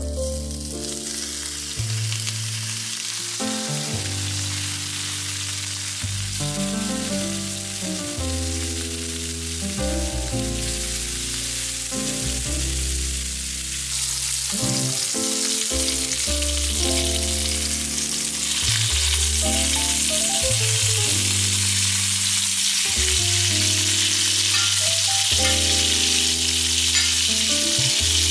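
Zucchini frying in hot olive oil in a pan: a steady sizzle that grows louder about halfway through and again a few seconds later. Soft background music with held low notes plays underneath.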